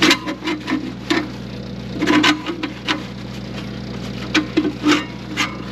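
Irregular metal knocks and clanks, some ringing briefly, as a steel strap is worked into place in a snowblower's fan shroud, over a steady low hum.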